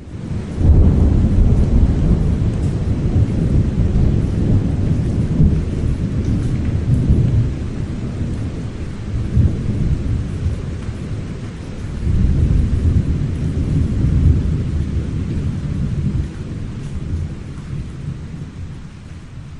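Thunder rolling in a long, deep rumble over steady rain. It starts suddenly, swells again about two-thirds of the way through, then dies away.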